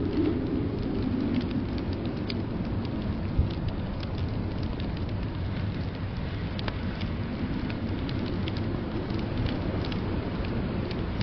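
Wood fire crackling in a fireplace, scattered sharp pops and snaps over a steady low rush of blizzard wind.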